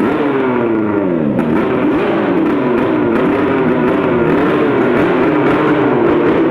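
Racing long-tail boat engine revving at the start line, its pitch dropping and climbing in repeated blips before holding a wavering, higher running note near the end.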